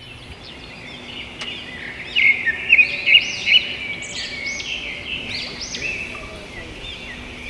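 Forest birds calling: many overlapping high chirping notes that rise and fall, growing louder about two seconds in, over a steady high hiss.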